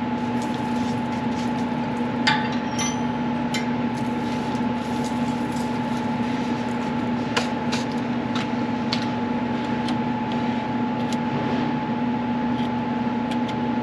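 A steady mechanical hum from a shop fan or similar machine, with scattered light clicks and taps of hand work on drum brake parts.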